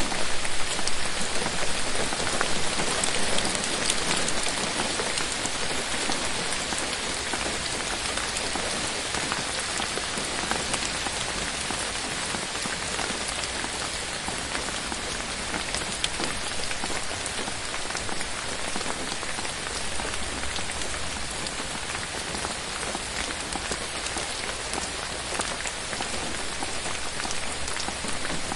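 Steady rain falling on forest foliage, a dense hiss of many small drop impacts, a little heavier in the first few seconds.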